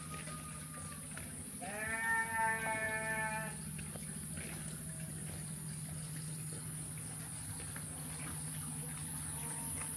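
A single long bleat from livestock, lasting about two seconds and starting a little under two seconds in, its pitch rising at the start and then holding steady. Beneath it runs a steady low hum and a constant high-pitched drone.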